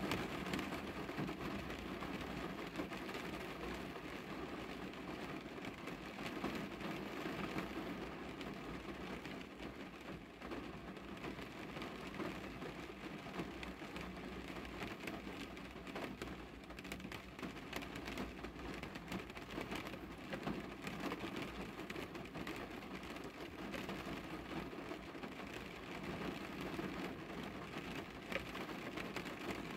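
Rain falling on a car, heard from inside the cabin: a steady hiss of rain on the roof and glass, with many small ticks of single drops.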